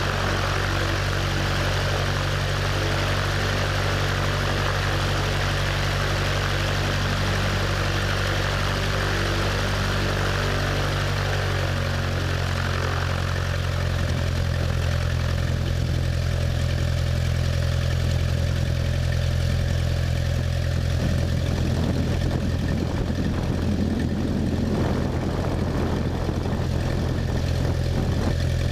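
Cessna 172's piston engine and propeller running steadily. The engine note shifts about twelve seconds in, and a rougher rushing noise joins it from about twenty seconds on.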